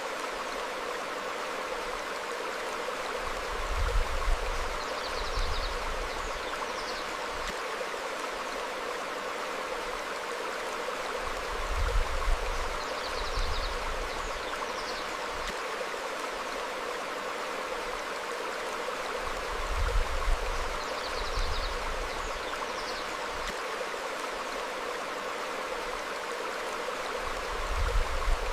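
Stream flowing over rocks, a steady rush of water, with short faint bird chirps every few seconds. A brief low rumble comes about every eight seconds, four times.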